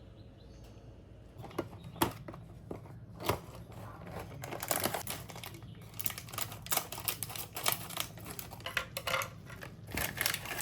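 Typing on a computer keyboard: irregular key clicks, a few scattered at first, then rapid and dense from about four seconds in.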